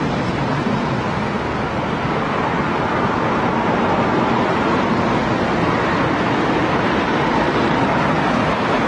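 Steady road traffic noise: a continuous wash of passing vehicles, with no single car or horn standing out.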